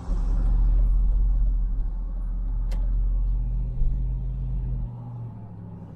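Jeep Grand Cherokee SRT8 driving, heard from inside the cabin: a heavy low engine and road rumble with a steady hum, one sharp click about two and a half seconds in, and the rumble easing off about five seconds in. No brake squeak is heard.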